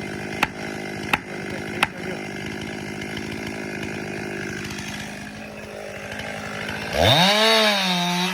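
Chainsaw running steadily at low speed, with sharp knocks about every 0.7 s over the first two seconds, then revved hard to full speed about seven seconds in while felling trees.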